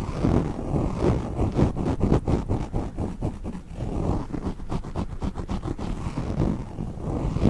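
Orbeez water beads being handled close to the microphone: a dense, continuous jumble of soft squishing, with a run of many small quick clicks through the middle.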